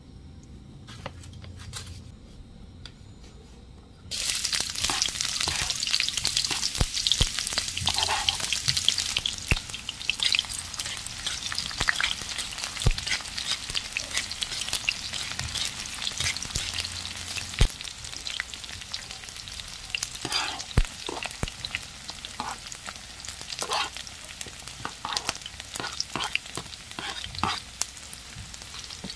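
Sliced red onions frying in hot oil in a wok, the sizzle starting suddenly about four seconds in and running on steadily, with a metal spatula scraping and clinking against the pan.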